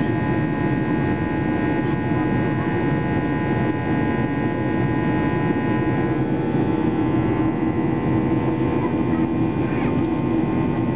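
Steady cabin noise inside a Boeing 737-800 in flight: a constant rush of engine and airflow noise with a set of steady whining tones from its CFM56-7B turbofans. Some of the higher tones shift slightly about six seconds in.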